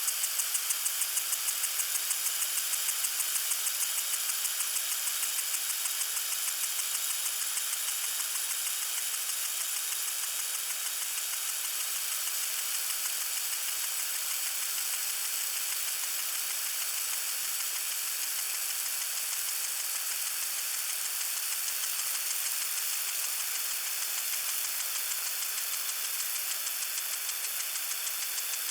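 Lawn sprinkler spraying water: a steady hiss with a fast, regular ticking pulse, clearest in the first few seconds and then fading into the hiss.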